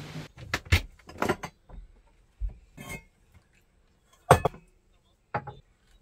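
Utensils clinking and knocking in a series of separate sharp strikes, the loudest a little past four seconds in, with a duller knock about halfway through.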